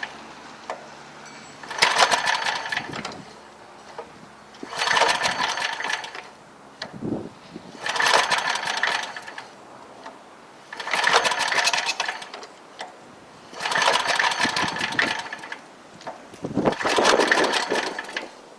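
Small single-cylinder engine on a 1959 David Bradley walk-behind tractor being pull-started over and over: six rope pulls about three seconds apart, each a short whirring spin that does not catch. It is failing to start, which the owner puts down to too much gas poured down the cylinder.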